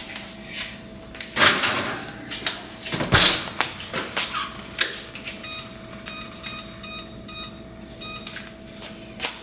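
Kitchen handling sounds: a couple of sharp knocks, one with a low thump like a door or cabinet shutting. Then from about halfway through comes a rapid run of short electronic appliance beeps, over a steady faint hum.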